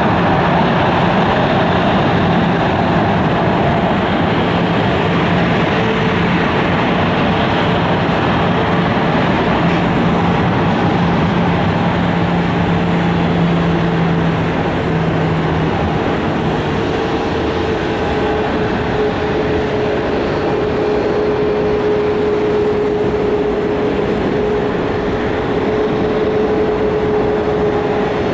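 Boeing 737-900ER's CFM56 jet engines running at low power as the airliner taxis in, a loud steady rumble with a steady whine. A lower hum in the mix fades out about halfway through.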